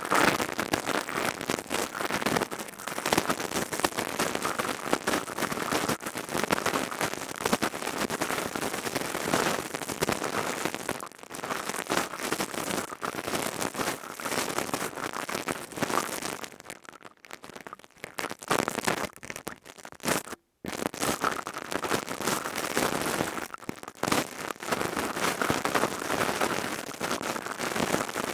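Crystal tube ASMR trigger worked close to the microphone: dense, continuous crackling and rustling, with a brief break about twenty seconds in.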